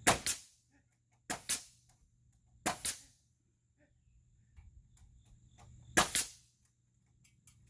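Hammer blows on lumber, driving a 2x8 board into place. There are sharp strikes in quick pairs near the start, around one and a half seconds in and around three seconds in, then one more hit at about six seconds.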